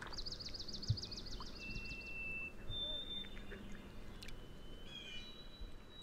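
Quiet pond ambience with songbirds: a rapid, high trill of about two seconds at the start, then thin, steady whistled notes and a few short chirps. A single soft low knock or plop comes about a second in.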